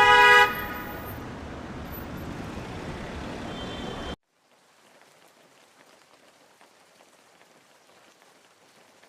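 A vehicle horn honks and stops about half a second in, over a steady vehicle-and-rain rumble that cuts off abruptly about four seconds in. Faint rain patter follows.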